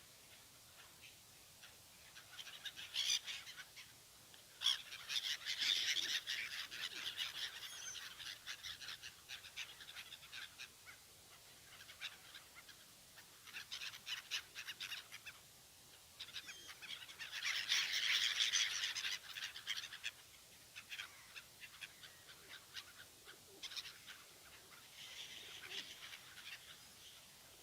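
Pigeons fighting: repeated bursts of rapid, clattering bird noise, loudest about five to seven seconds in and again around eighteen seconds in.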